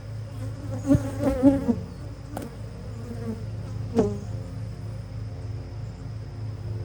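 A swarm of honeybees buzzing steadily around an open hive, with single bees whining past close by and a couple of sharp clicks. The colony is agitated by the inspection.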